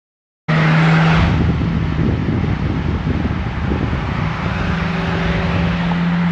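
A car engine running steadily with a low, even hum. It starts abruptly about half a second in.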